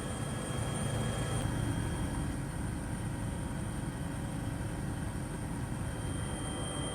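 Drone's motors and propellers running in flight: a steady low rumble and hiss with faint constant high-pitched whines.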